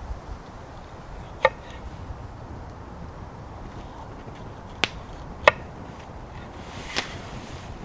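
Four sharp, irregularly spaced clicks or knocks over a low steady background rumble.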